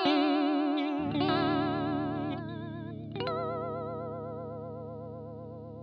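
Electric guitar through a TC Electronic Corona Chorus pedal on a custom vibrato Toneprint: picked notes with an even, fast wobble in pitch. A new note is struck about a second in and another about three seconds in, and that one is left to ring out and fade.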